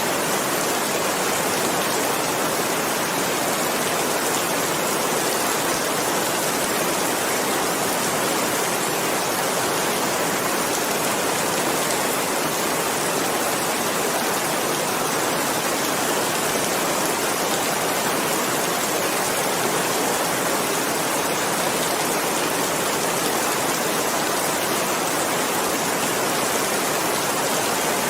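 Steady, even rain falling without a break, an unbroken hiss with no separate drops, thunder or other events.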